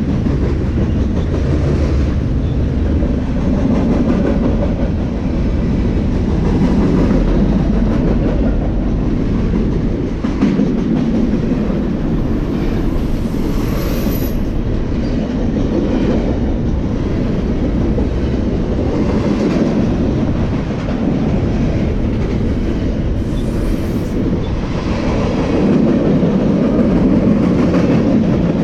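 Freight train cars rolling past at speed: a loud, steady rumble of wheels on rail that swells and eases every few seconds as the cars go by, with a faint high wheel whine about halfway through.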